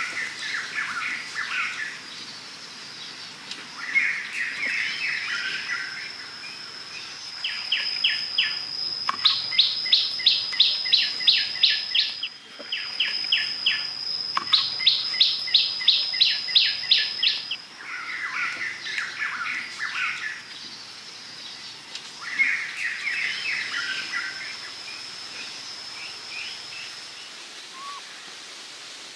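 Songbirds singing: bursts of chirpy twittering alternate with trills of quick, evenly repeated notes, the trills loudest in the middle, over a thin high steady whistle and a faint outdoor hiss.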